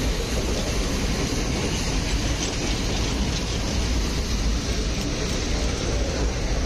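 Nilgiri Mountain Railway toy train running, heard from on board: a steady rumble of wheels on the rails, with no breaks or changes.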